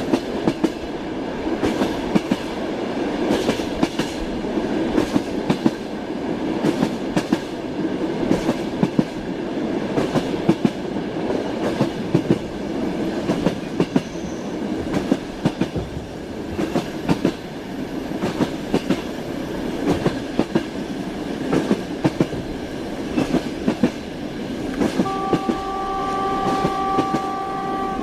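Train running along the line, its wheels clattering over rail joints with a steady rumble. Near the end a train horn sounds one steady tone for about three seconds.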